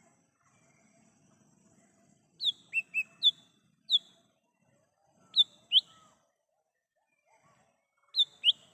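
Cucak hijau mini, a small green leafbird, calling: short, sharp whistled notes that slide downward. A quick run of four comes about two and a half seconds in, then a single note, then pairs around five and a half seconds and near the end.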